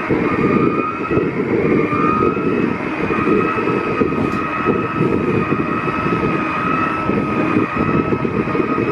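Segway electric drive motors whining steadily at a constant pitch while riding, over heavy low rumble of wind on the microphone.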